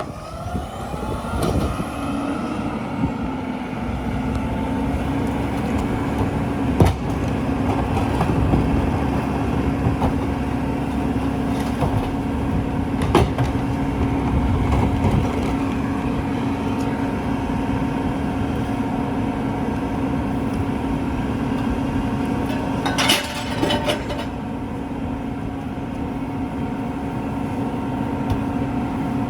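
Mack LEU garbage truck's diesel engine revving up and then running steadily at raised speed. A few sharp clanks come through, and a short burst of air hiss sounds about three-quarters of the way through.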